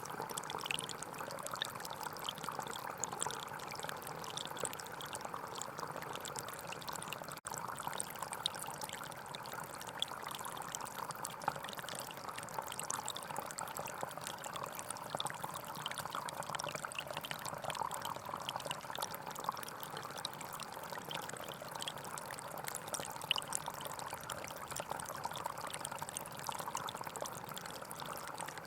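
Gentle forest stream flowing steadily, with a split-second dropout about seven seconds in.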